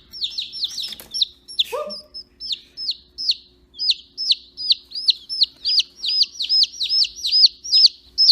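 A chicken chick peeping over and over: high, downward-sliding peeps at about three a second, getting slightly quicker, with one short lower call about two seconds in.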